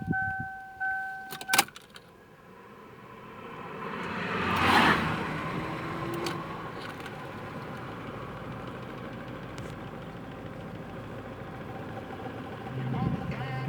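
Dashboard warning chime beeping, then a click as the key turns, and a Toyota 4S-FE inline-four engine starts, rises in revs about 5 s in and settles to a steady idle. This is the engine whose knock the owner is recording.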